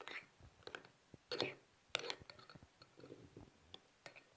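A few brief scrapes and light clicks, typical of hands handling containers and materials while making slime.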